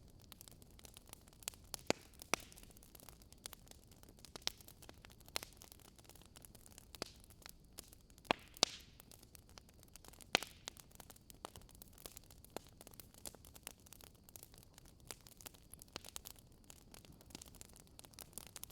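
Wood fire crackling: irregular sharp pops and snaps of burning wood over a low hiss, with a few louder pops about two, eight and ten seconds in.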